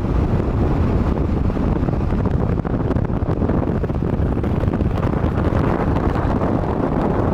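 Strong wind buffeting the microphone, a loud, steady low rumble with no other clear sound.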